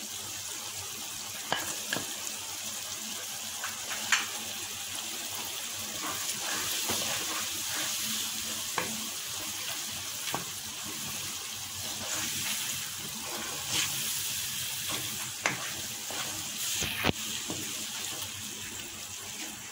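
Chopped tomatoes and green chillies sizzling in hot oil with an onion and spice masala in a non-stick pan, a steady frying hiss. The spatula stirring them taps and scrapes the pan now and then, with about half a dozen sharp clicks spread through.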